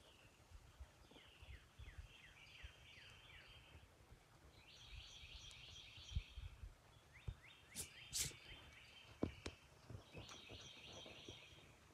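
A faint bird song: a phrase of quick, down-slurred trilled notes, repeated four times with short pauses between. Low rumble and a few bumps come from the handheld phone underneath.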